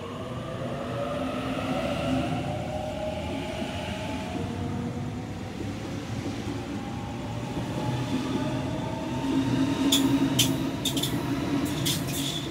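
Double-deck electric suburban train moving along the platform, its motors whining upward in pitch as it gathers speed over a steady wheel rumble. A run of sharp clicks comes near the end.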